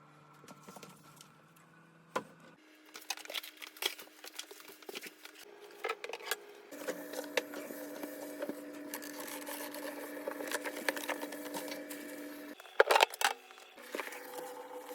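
Scattered clicks, knocks and rustles of household items being handled during refrigerator cleaning, over a steady hum that shifts in pitch several times. A steady hiss joins from about seven seconds in, and a cluster of louder knocks comes about thirteen seconds in.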